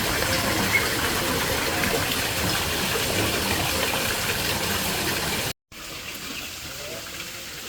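A steady rush of running water. It cuts off abruptly about five and a half seconds in, then resumes as a quieter water sound.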